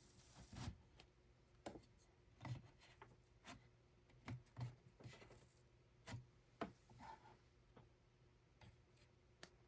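Faint, irregular clicks and light knocks, roughly one a second at uneven spacing, over a low steady hum.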